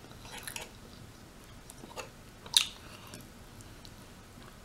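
Close-miked eating of rotisserie chicken: quiet chewing and small mouth clicks, with one sharp crunch or click about two and a half seconds in.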